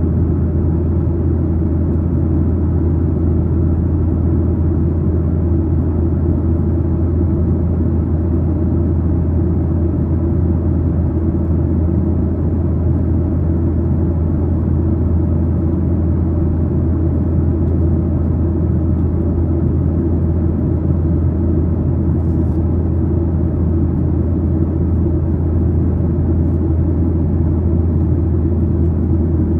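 Steady cabin drone of a Boeing 737-900ER in flight or on the roll: its CFM56-7B turbofans and airflow heard from a window seat aft of the wing, a loud, even low rumble with no changes.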